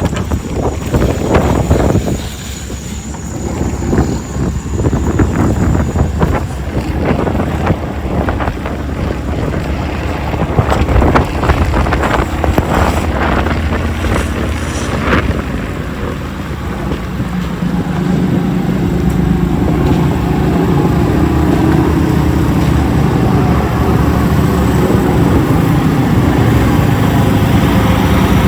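Wind buffeting the microphone in the first half. From a little past halfway, a heavy vehicle's engine runs steadily close by, slightly louder than the wind.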